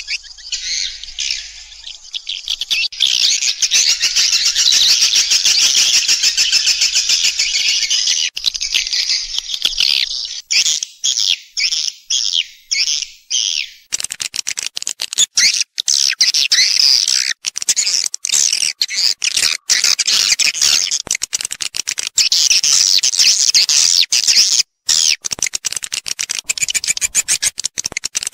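Edible-nest swiftlet calls, of the kind played to lure swiftlets into a nesting house: dense, high twittering. Near the middle it breaks into separate chirps about two a second, then turns back to fast, continuous chirping.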